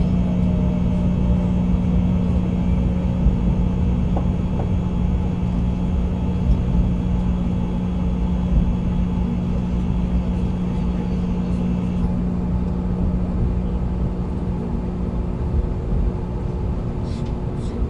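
Cabin sound of a 700-series Shinkansen train rolling slowly along a station platform: a steady low rumble with a constant hum. A set of higher tones cuts off about twelve seconds in.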